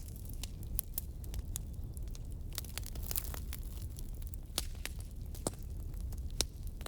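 Burning firewood crackling, with irregular sharp pops and snaps, a few louder ones near the middle and end, over a steady low rumble of the fire.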